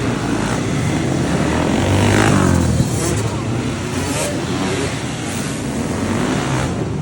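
Flat track racing motorcycle engines running hard as the bikes race, with one engine revving up about two seconds in.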